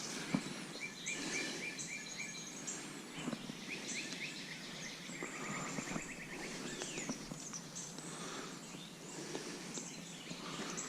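Wild birds singing, with several short trilled phrases of rapidly repeated notes and some high chirps, over a steady outdoor background hiss. A few light clicks are scattered through it.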